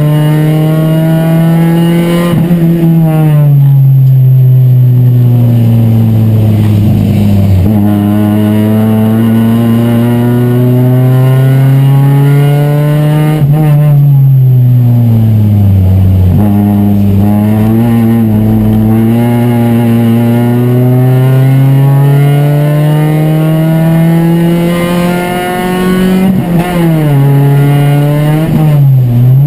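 Chevrolet Chevy race car's four-cylinder engine heard from inside the cabin under racing load. Its pitch climbs in long sweeps as the car accelerates and falls away under braking, with one sharp drop about halfway through and a couple of quick dips and recoveries near the end.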